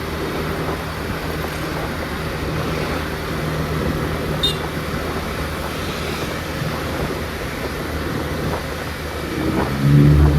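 Scooter ride in traffic: steady wind rumble on the microphone over a low engine hum. Near the end an engine rises in pitch and gets louder.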